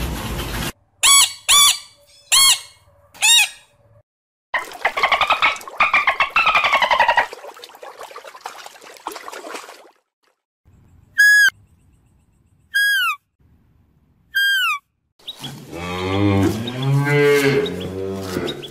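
A run of animal calls: four short high yelps, a burst of fast chattering, then four short falling whistles from dolphins, and near the end a long, low cow moo that rises and falls.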